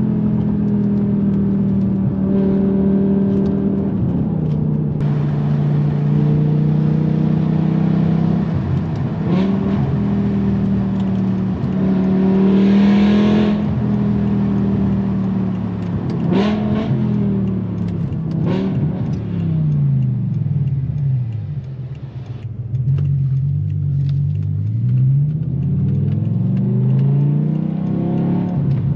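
BMW M6's S85 V10 running through a straight-pipe exhaust with the revs climbing and dropping several times, with sharp cracks from the exhaust at a couple of the changes. About two-thirds through, the revs fall away and the sound briefly drops, then the engine pulls up again.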